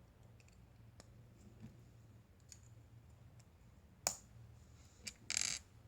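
Paper craft pieces and stickers being handled: faint small clicks and taps, one sharper tap about four seconds in, and a short papery rustle near the end.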